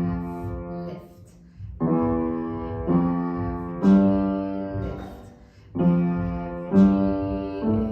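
Piano played slowly, note by note, in a short repeating pattern. Each note is struck and rings away, with a brief pause between groups of notes.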